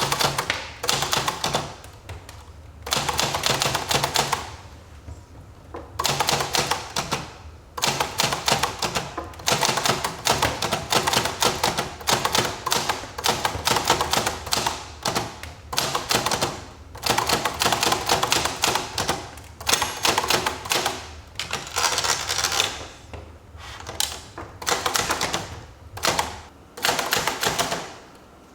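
Typewriter being typed on: runs of rapid key strikes broken by short pauses every few seconds.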